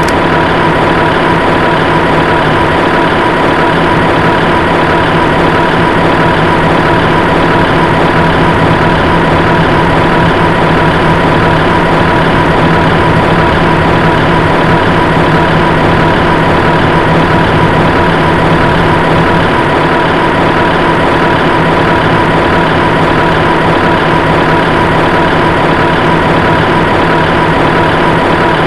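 A heavy vehicle engine idling with a steady, unchanging drone and a constant hum, no revving.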